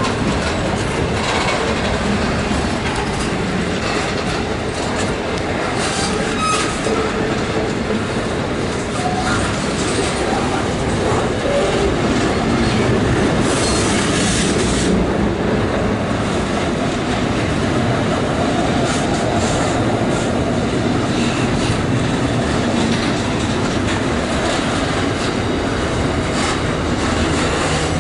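Container freight train's wagons rolling past at close range: a steady rumble of wheels on rail, with clacking over the rail joints and a few brief wheel squeals.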